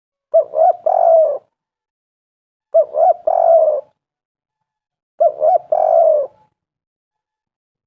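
Spotted dove cooing three times, about two and a half seconds apart. Each call is two short coos followed by a longer, drawn-out coo.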